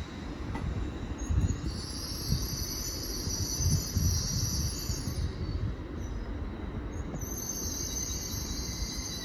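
A train moving through the station with a low rumble and a high-pitched metallic squeal in two stretches, the first from about one and a half seconds in and the second near the end.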